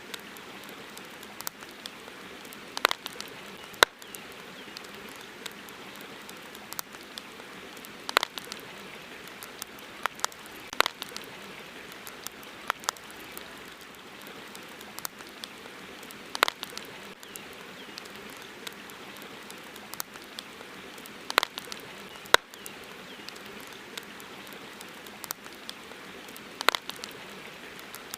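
Campfire crackling: irregular sharp pops and snaps, a few of them loud, over a steady hiss.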